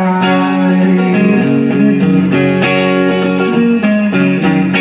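Electric guitar playing a sequence of picked chords, each ringing briefly before the next.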